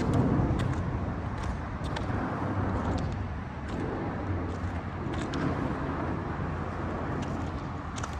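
Steady low vehicle rumble with faint scattered clicks, a little louder at the very start.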